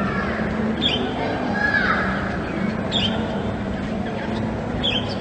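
Steady background hum and murmur, with a short high chirp about every two seconds.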